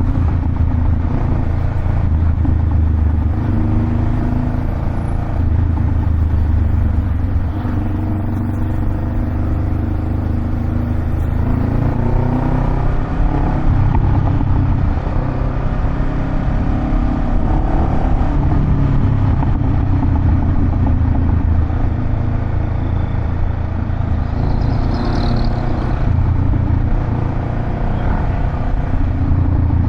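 Honda Rebel 500's 471 cc parallel-twin engine running through a Vance & Hines aftermarket exhaust: a deep, steady rumble whose pitch rises and falls slightly through the middle.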